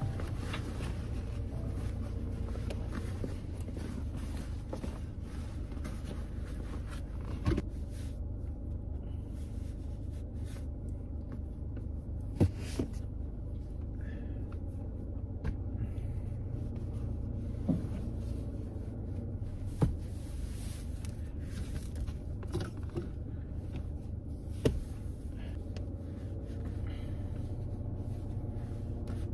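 Steady low rumble of a car running, heard from inside the cabin, with a handful of sharp knocks or clicks spread through it.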